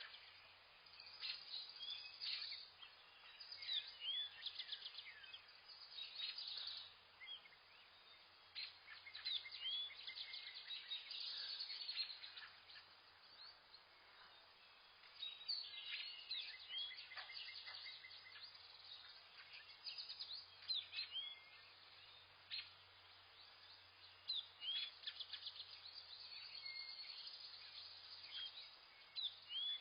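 Several small birds chirping and calling together: quick high chirps, short sweeping whistles and rapid trills, coming in clusters every few seconds with brief lulls between.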